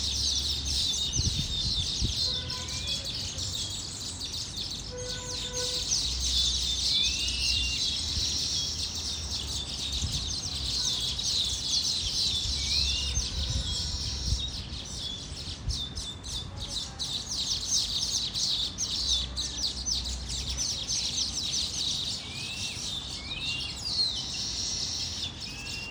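A flock of small birds chattering in a dense, continuous stream of rapid chirps, with a short rising call repeated every few seconds over it.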